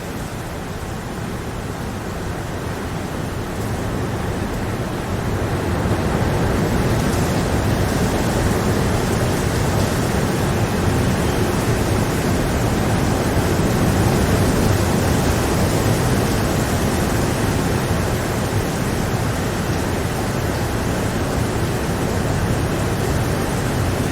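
Steady rain falling, a dense even hiss that swells louder about five seconds in and stays up.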